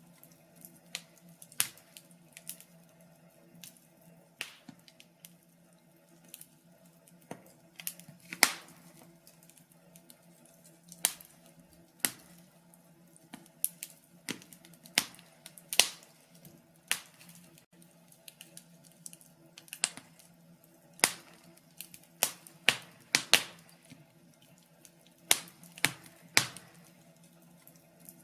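Wood fire crackling, with irregular sharp pops and snaps at uneven intervals, some much louder than others, over a faint steady low hum.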